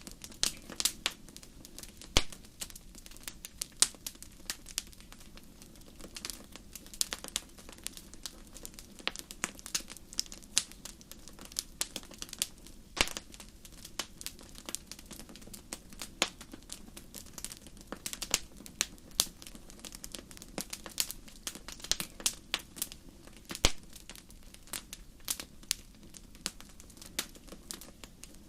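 Wood fire burning in a fireplace: irregular sharp crackles and pops, several a second, over a steady low rush of the flames.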